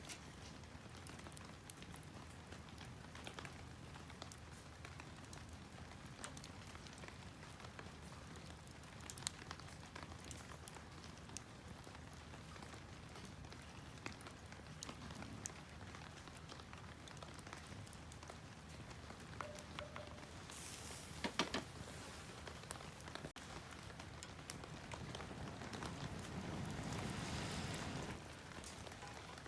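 Wood campfire crackling steadily with scattered small pops, and a brief cluster of sharper pops about two-thirds of the way through.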